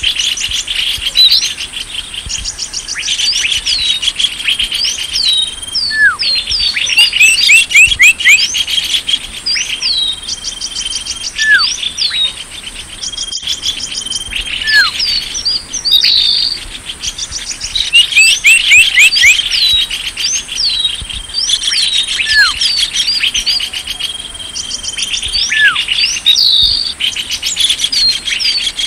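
Bird-lure recording of small songbirds: dense, rapid high chirps and trills, mixed with short falling whistles, over a steady high thin buzz like an insect.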